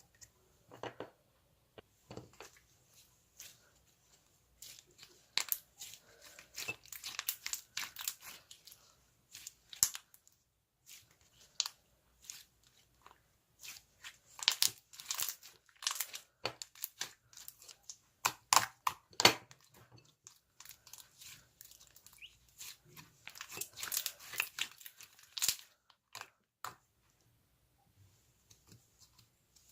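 Slime being worked by hand, giving off irregular clusters of small clicks, crackles and pops as it is squeezed, stretched and poked.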